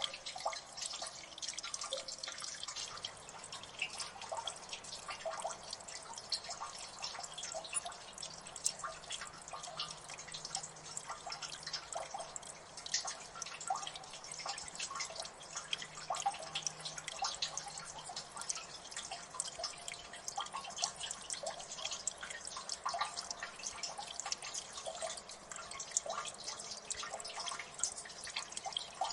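Water dripping in a gully: many small drops falling irregularly, several a second, each a short plink or click over a faint steady trickle.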